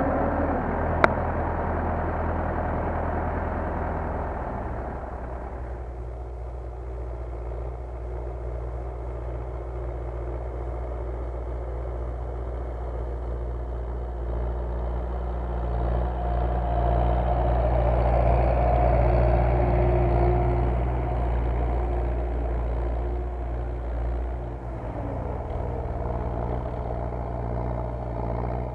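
MTZ tractor diesel engine running steadily under ploughing load. It eases off about five seconds in and swells louder around two-thirds of the way through. A single sharp click comes about a second in.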